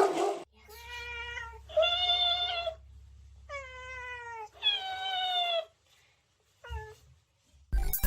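A cat meowing: four long, drawn-out meows of about a second each, the third falling in pitch, then a short one near the end. A brief noisy burst comes at the very start.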